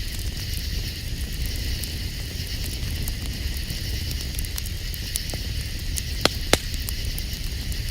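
Campfire crackling, with scattered small clicks and two sharp loud pops in quick succession a little over six seconds in, over a steady high night-insect chorus.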